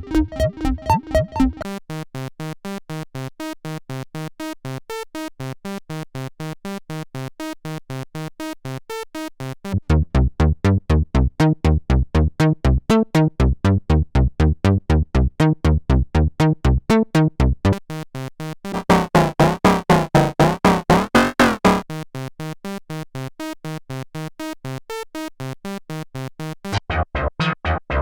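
Roland SE-02 analog monosynth playing a fast, repeating sequenced line of short notes, switching to a different preset sound every few seconds. The patch about two-thirds of the way through is louder and has a filter that sweeps up and down.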